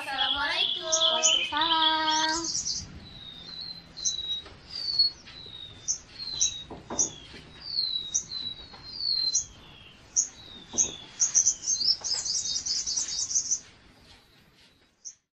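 Birds chirping: many short, high, falling chirps, quickening into a fast run near the end, then stopping suddenly. A voice is heard briefly at the start.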